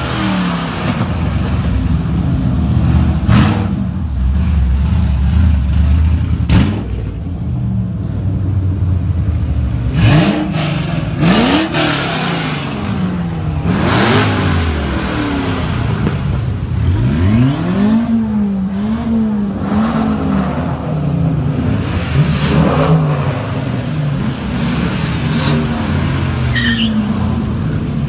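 Car engines running as a line of cars drives past one after another, several revving and accelerating away with a rising engine note.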